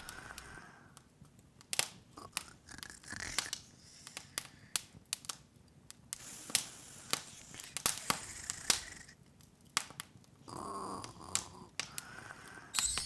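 Open wood fire crackling: irregular sharp pops and snaps.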